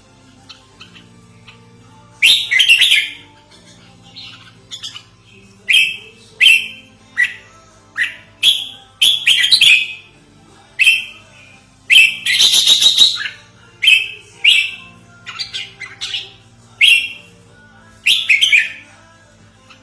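Red-whiskered bulbul calling: short, loud chirping notes repeated roughly once a second, with longer rapid phrases about two seconds in and again around twelve seconds.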